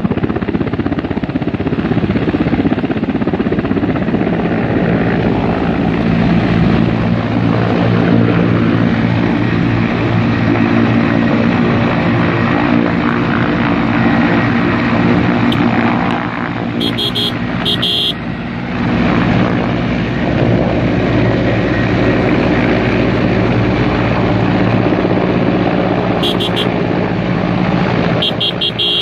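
Loud, steady engine drone with a low hum of several tones, dipping briefly about two-thirds of the way through.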